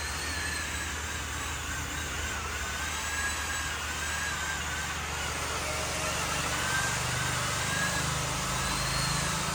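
Motorized machinery running steadily: a low hum under a faint, wavering high whine, growing a little heavier in the low end after about six seconds.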